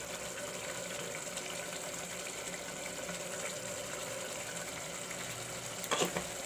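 Thick onion-and-spice masala frying in an aluminium pressure cooker on a gas flame, a steady sizzle and bubble, with a short clatter about six seconds in.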